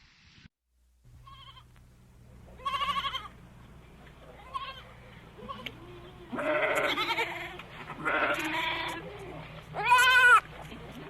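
Goat bleating, about five quavering bleats, some short and some drawn out, the loudest near the end, over a faint steady low hum.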